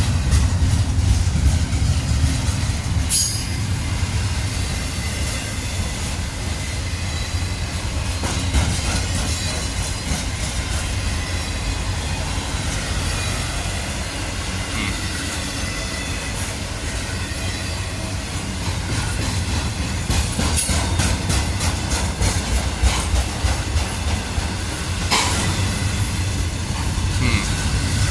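Freight train cars rolling past: a steady low rumble of wheels on rail with scattered clicks and knocks, and a few faint wheel squeals.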